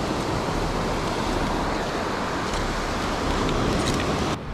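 Steady rushing noise of surf and wind at the water's edge, cutting off abruptly just before the end.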